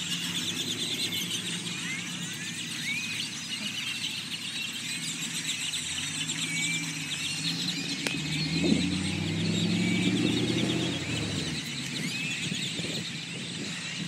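Continuous din of a huge flock of birds calling and chattering all at once, many overlapping squeals and chirps. A car drives slowly past partway through, its engine swelling and fading around the middle.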